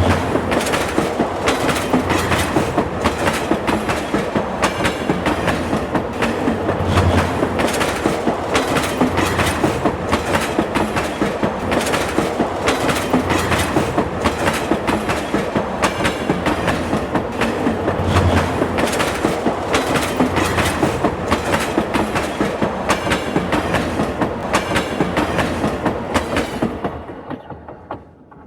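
Train rolling by, its wheels clacking over the rail joints in a fast steady rhythm, fading away near the end.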